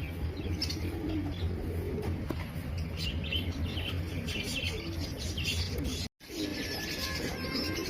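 Many small caged pet birds chirping over one another with a steady low hum underneath. The sound breaks off for a moment about six seconds in, then the chirping resumes.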